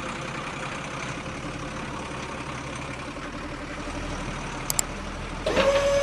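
Steady engine-like hum from toy construction vehicles, with two small clicks near the end. Just before the end, a steady high-pitched whine like a small electric motor starts.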